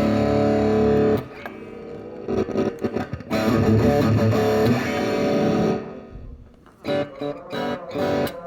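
Electric guitar played through a small Fender Frontman practice amp with an 8-inch speaker: loud strummed chords left to ring, quieter picking between them, and a few short chopped chords near the end.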